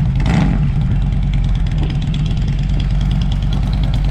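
A motorcycle engine idling steadily, its sound mostly low-pitched.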